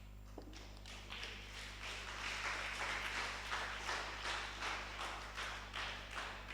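Congregation clapping, faint, in a loose steady rhythm of about two to three claps a second that builds up about a second in, over a low electrical hum.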